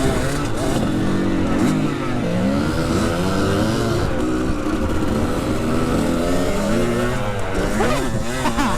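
Dirt bike engine running under riding load, its pitch rising and falling repeatedly as the throttle is opened and closed.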